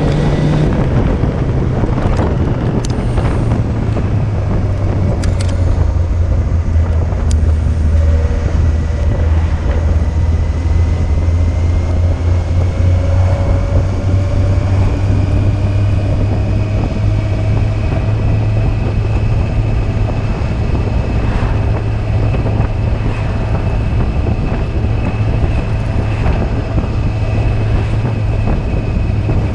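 Yamaha Fazer 600 inline-four engine running at a steady, fairly even pitch while the motorbike is ridden, with wind buffeting the microphone.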